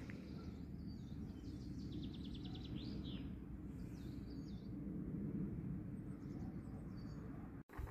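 Songbirds calling over a steady low outdoor rumble: a rapid trill about two to three seconds in, then a few more short chirps later. The sound drops out for a moment just before the end.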